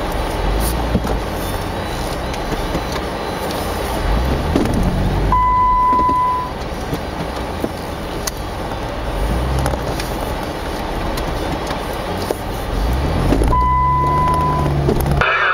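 Jeep Wrangler JK Unlimited engine running, revving up twice as the Jeep creeps forward in snow. A short electronic beep sounds twice, each about a second long.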